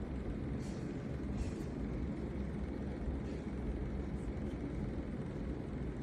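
Steady low rumble of a moving vehicle, with faint brief hisses on top.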